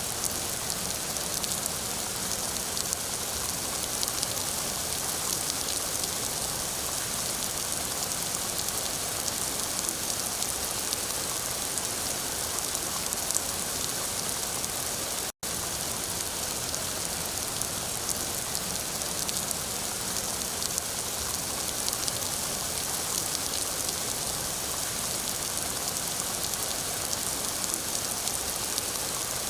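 Steady rain falling, a dense patter of drops. The sound cuts out for an instant about halfway through.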